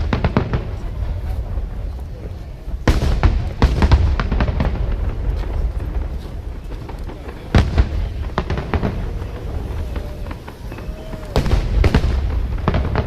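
Aerial fireworks shells bursting in a series of sharp booms: one right at the start, two around three to four seconds in, two more around seven to eight seconds, and a pair near the end. A low rumble carries on between the bursts.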